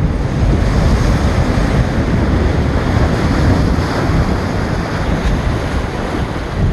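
Ocean waves breaking and surging against a rock jetty in strong wind, with heavy wind buffeting on the microphone: a loud, continuous rumble and wash of surf.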